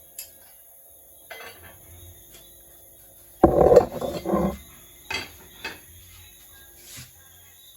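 Dishes and cutlery clinking and clattering. A few light knocks come first, then a louder burst of clatter lasting about a second, followed by a few more clinks.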